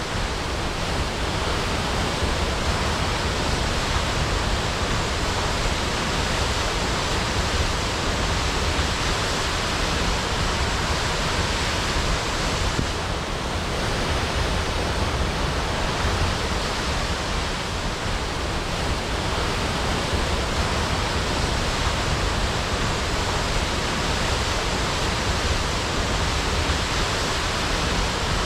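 Waterfall crashing: a steady, unbroken rush of falling water with no break or change.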